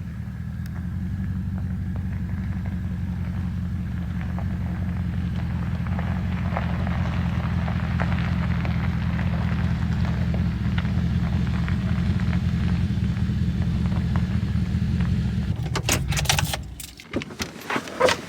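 Pickup truck being driven, its engine and road noise a steady low drone, heard from inside the cab. The drone stops abruptly near the end, followed by a few sharp clicks and knocks.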